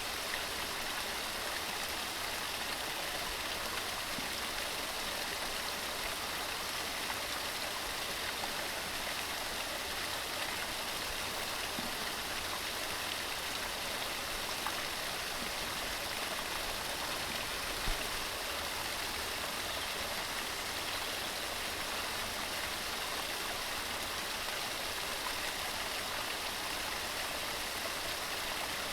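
Waterfall: water falling over rocks in a steady, unbroken rush, with a faint low knock about two-thirds of the way through.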